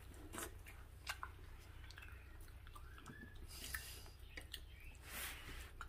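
Faint chewing of soft fufu, with scattered small mouth clicks and a couple of soft breaths or rustles over a low steady room hum.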